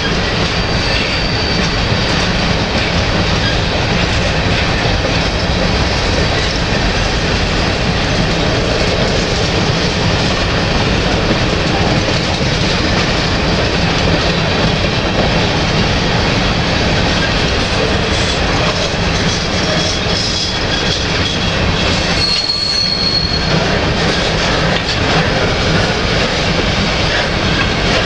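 Freight train of covered hopper cars rolling past close by: a loud, steady rumble and clatter of steel wheels on the rails. A brief high wheel squeal comes about a second in, and again for about a second near the end.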